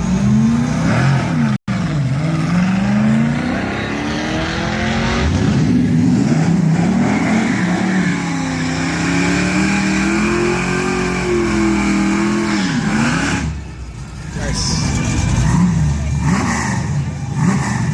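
Car engine accelerating hard down a drag strip, its pitch climbing and dropping repeatedly as it runs up through the gears.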